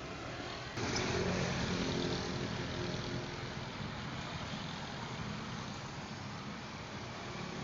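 Motor vehicle running, an even engine and road noise. About a second in it jumps abruptly louder, then eases off slowly.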